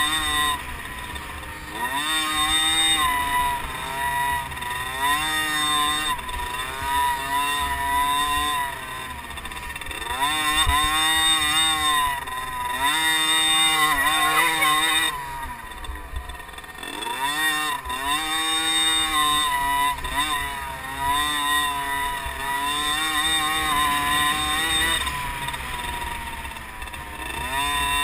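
50cc liquid-cooled two-stroke motocross bike engines racing, revving up and falling back again and again as the riders accelerate, shift and back off.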